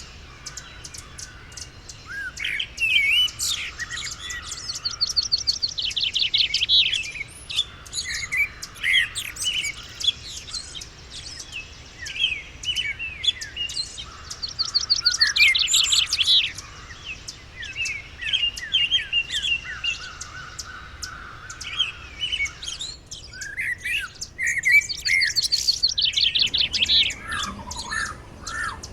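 Several songbirds chirping and singing together. One bird repeats a loud, rapid trilled song phrase three times, about ten seconds apart.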